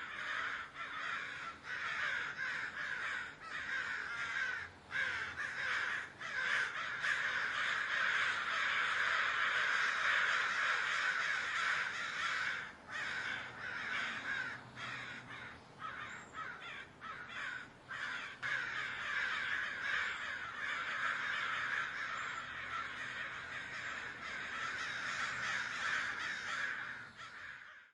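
A large flock of birds calling all at once, a dense unbroken clamour that swells in the middle and cuts off abruptly at the end.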